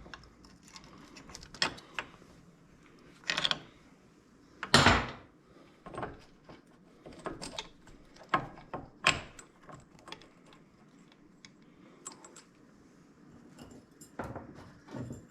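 Irregular metallic clicks, clinks and knocks of hand tools and engine parts being handled while the camshaft and cam chain are fitted to a small single-cylinder motorcycle engine; the loudest knock comes about five seconds in.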